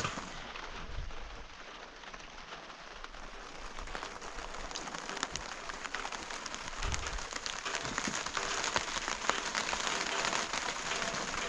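Rain falling on a surface, a dense patter of drops that eases slightly about two seconds in and then grows louder.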